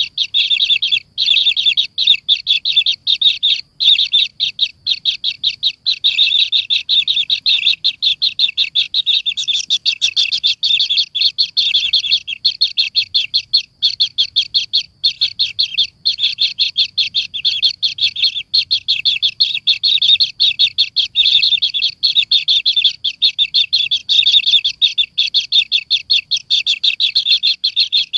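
Bird chirping rapidly and without a break: a fast run of short, high chirps, several a second, with only a few brief gaps.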